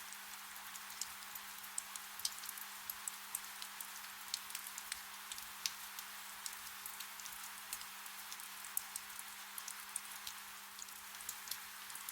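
Soft rain: a steady hiss with many small, sharp drop ticks landing irregularly, several a second.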